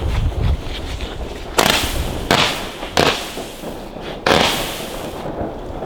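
Weco Ghost, a small whistling fireworks battery, firing four separate shots over about three seconds, each a sharp bang with a brief noisy tail.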